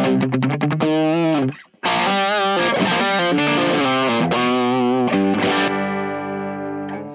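Electric guitar with humbucker pickups played through a Keris one-knob overdrive pedal set at 12 o'clock, into a clean amp at the edge of breakup, giving a lightly driven tone. A riff with bent, wavering notes breaks off briefly about a second and a half in, resumes, and ends on a held chord that rings and fades a little.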